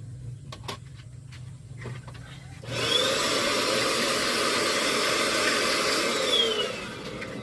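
A motor-driven air blower starts up about three seconds in and runs loudly with a rush of air for about four seconds, its motor whine rising as it spins up and falling away as it winds down.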